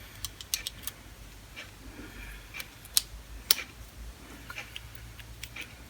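Scattered light metallic clicks and taps from a Craftsman push drill and its bits being handled, with two sharper clicks about three seconds in.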